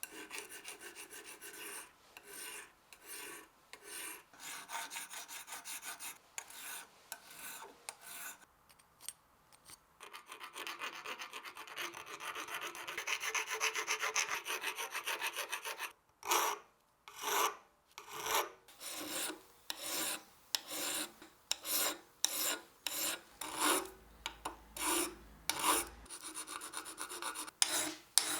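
Repeated back-and-forth abrasive rubbing strokes by hand, like sanding or scrubbing a part. The strokes are quick and uneven at first, turn into a fast continuous scrubbing in the middle, then become separate strokes a little more than one a second toward the end.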